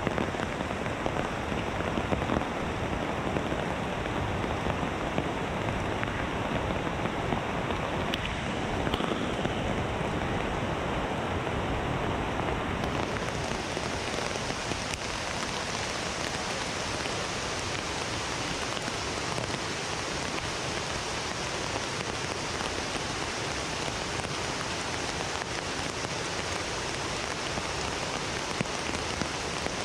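Heavy rain falling steadily in rainforest, a dense hiss of drops on foliage; the hiss turns brighter about 13 seconds in.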